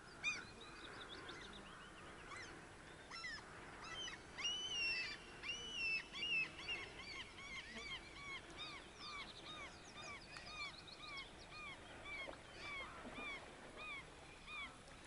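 Bird calls: a series of short, arched calls repeating about twice a second, with louder, higher calls from a second bird in the middle.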